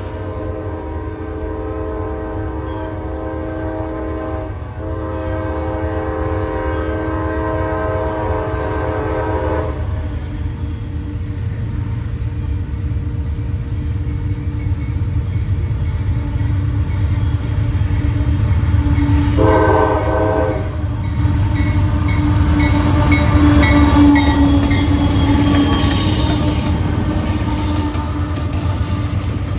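Freight train locomotive horn sounding a long chord that breaks briefly about five seconds in and stops near ten seconds, then one short blast near twenty seconds, over the steady low rumble of the passing train, which grows louder.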